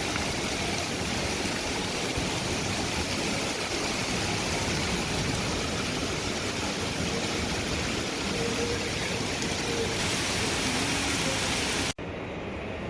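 Heavy downpour of rain, a steady loud hiss, cutting off abruptly near the end.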